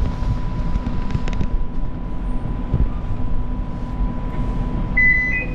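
Inside a Line 5 Eglinton light-rail car standing at a station with its doors open: a steady low rumble of the vehicle's equipment and wind, under a faint steady high hum. Near the end comes a short two-note rising chime.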